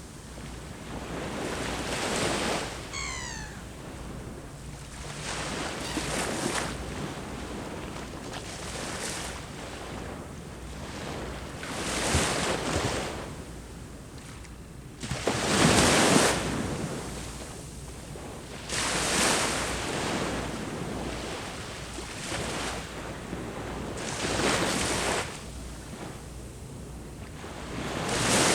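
Sea waves breaking and washing on the shore, a swell of surf about every three seconds, loudest about halfway through. Wind rumbles on the microphone underneath, and a brief high call of a few quick falling notes comes about three seconds in.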